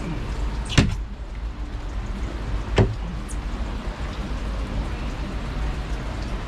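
Two sharp knocks about two seconds apart over a steady low background rumble.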